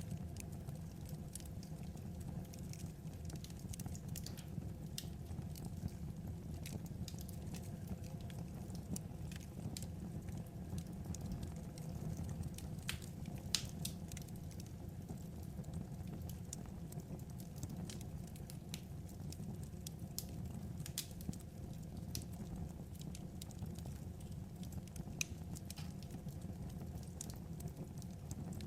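Burning firewood crackling: irregular small snaps and pops over a steady low rumble, with a few sharper pops about halfway through and again near the end.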